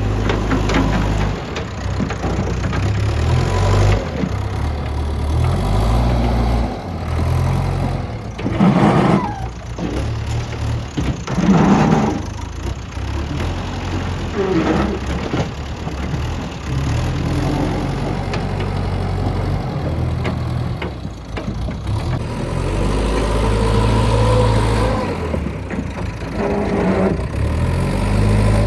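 Diesel engine of a JCB 3DX backhoe loader running under changing load as it works, its level rising and falling, with louder surges about 9 and 12 seconds in.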